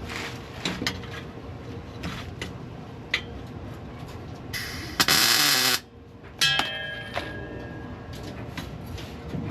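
Shop work on metal parts: scattered clanks, then a loud hiss lasting under a second about five seconds in, followed by a metallic ring that dies away over about a second and a half.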